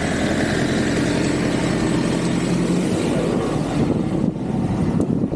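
Street traffic with a vehicle engine running steadily close by. About four seconds in, the hiss fades and a gusty wind rumble on the microphone takes over.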